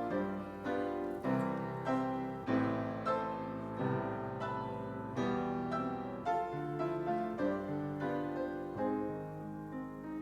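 Piano playing a slow, gentle piece of chords and melody, each struck note ringing on and fading.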